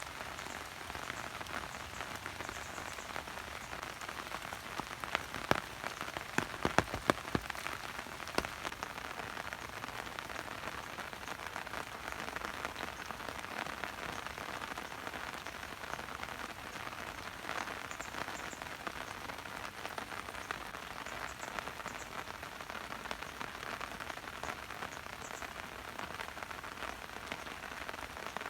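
Steady rain falling, with a cluster of sharper drop or tap sounds about five to eight seconds in.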